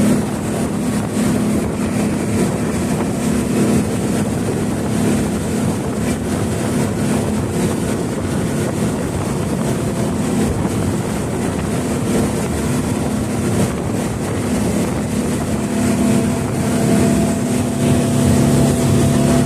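Speedboat engine running steadily under way, a constant low hum over rushing noise, with a second, lower hum joining near the end.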